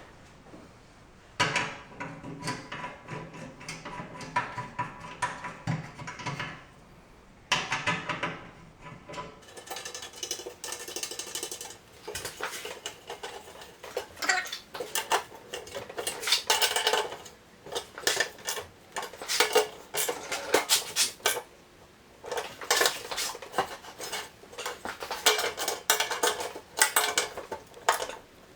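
Metal bolts, tools and cutter parts clinking and rattling in irregular runs of sharp clicks as bolts are put back into a Rubi TS 50 tile snap cutter during reassembly.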